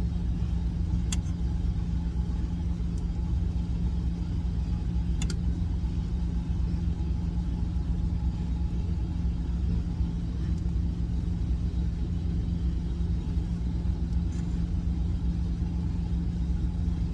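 Truck engine idling: a steady, unchanging low rumble with a constant hum. Two faint light clicks sound about one and five seconds in.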